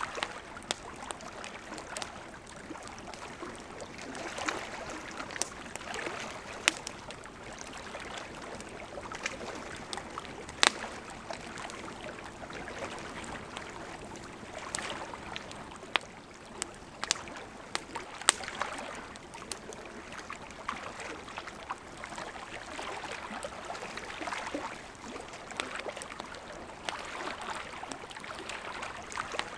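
Burning wood in a campfire crackling: a steady hiss with scattered sharp pops, a few of them louder, near the middle.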